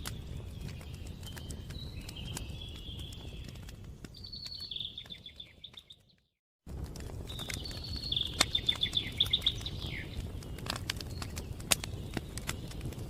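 A wood fire crackling with sharp pops, while small birds chirp and trill over a low steady rumble. About six seconds in the sound fades out to silence, then cuts back in abruptly half a second later.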